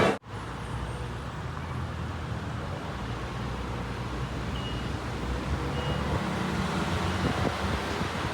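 Steady low background rumble with no clear events, starting just after an abrupt cut.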